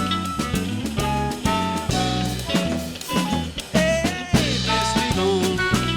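Live band playing an instrumental passage, with drum kit under shifting melodic lead lines.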